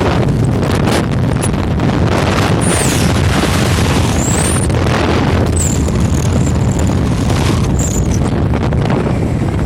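Loud, steady wind buffeting the microphone over a low road-and-engine rumble from a moving motorcycle, with a few faint high whistles.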